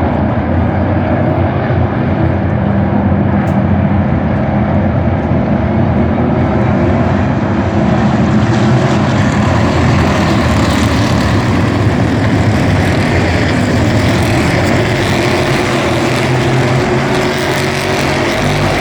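NASCAR Cup Series stock cars' V8 engines at racing speed as the field streams past, a continuous loud drone with no break between cars. It grows louder and brighter from about seven seconds in.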